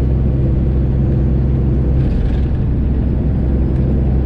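Semi truck's Detroit Diesel 12.7 engine running steadily with a deep, even drone as the truck gets under way.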